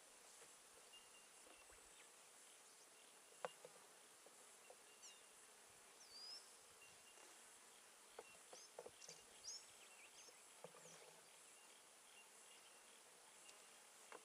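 Faint outdoor ambience: honey bees buzzing softly around an opened hive, with a few short bird chirps in the middle and scattered light clicks, the sharpest about three and a half seconds in.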